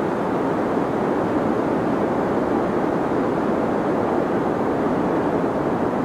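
Deep white noise for sleep: a steady, unchanging hiss with most of its weight in the low and middle range and little treble.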